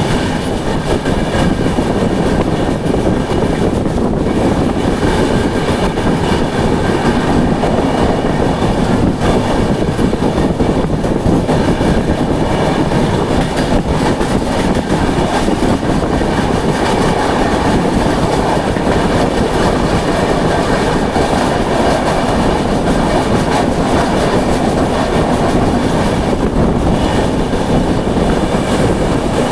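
The Duronto Express passenger train running along the track: a steady, loud rumble of wheels on the rails.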